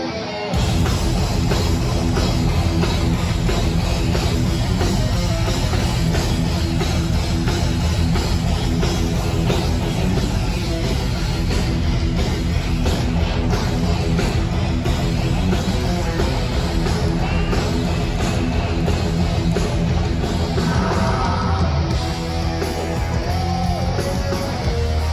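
Heavy metal band playing live and loud: distorted electric guitars, bass and drum kit, the full band coming in suddenly about half a second in after a guitar lead-in.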